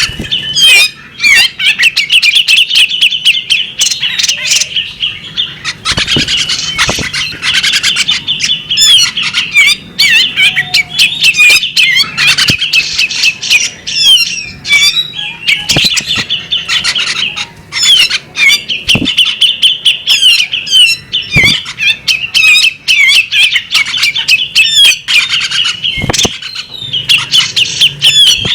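Female bearded magpie-robin singing and calling: a loud, unbroken stream of rapid, varied chirps and twitters, with a few sharp clicks now and then.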